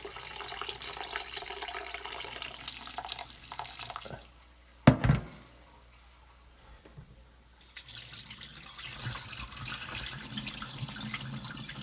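Tap water running into a sink while wild bird seed is rinsed. The water stops about four seconds in, a single sharp knock follows a second later, and the water starts running again about eight seconds in.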